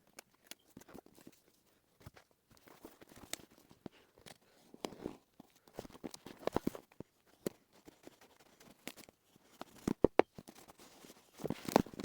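Irregular clicks, taps and rustling of small objects being handled, with a cluster of sharper clicks about ten seconds in.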